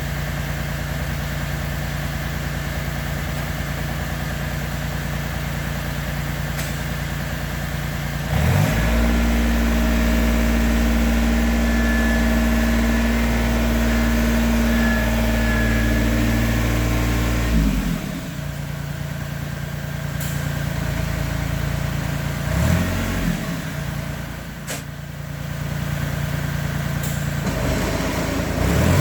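John Deere 955's three-cylinder Yanmar diesel engine running at low speed, then throttled up about eight seconds in and held at a higher, louder steady speed for roughly ten seconds before dropping back. A brief rise and fall in engine speed follows later, and the revs climb again near the end.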